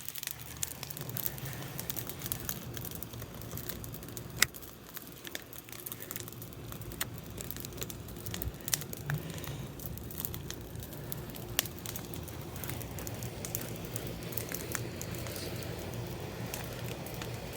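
Yard bonfire crackling as it gets going after being lit with a little gasoline: irregular sharp pops and snaps, two of them louder, over a steady low rumble.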